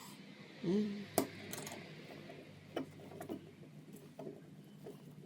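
Light metallic clicks and taps of tools and small parts being handled while the kitchen fan motor is worked on, over a steady low hum. About a second in, a short pitched sound is the loudest thing, followed at once by a sharp click.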